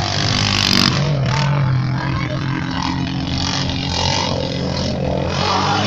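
A motor vehicle's engine running steadily, with a noisy rush over it.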